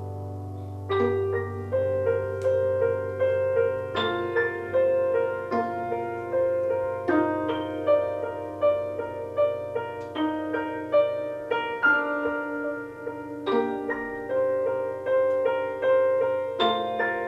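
Keyboard music in a live band set: after a held chord over a low steady tone, the keys strike repeated notes about twice a second, moving through a slow sequence of chords.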